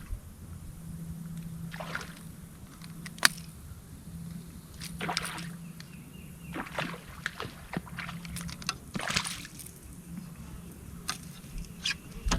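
Water sloshing and splashing against a small fishing boat over a steady low hum, with scattered swishes and a sharp click about three seconds in.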